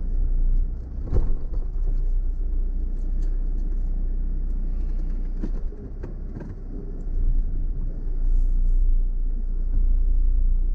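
Off-road vehicle driving over a rough track: a steady low rumble broken by several sharp knocks and jolts, one about a second in and a cluster around the middle.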